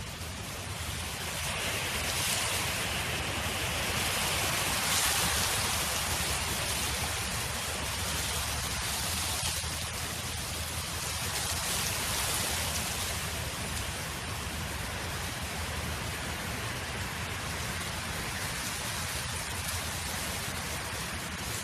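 Wind blowing, a steady rushing hiss over a low rumble that swells in gusts about two to five seconds in and again around twelve seconds.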